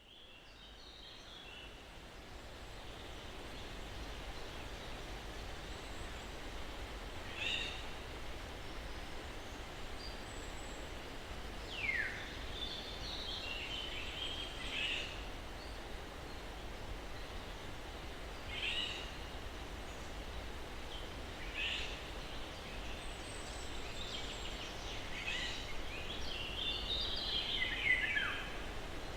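Steady soft breeze through pine trees, fading in over the first few seconds, with scattered birdsong: about seven short chirps and calls, two of them whistles sliding down in pitch, one near the middle and one near the end.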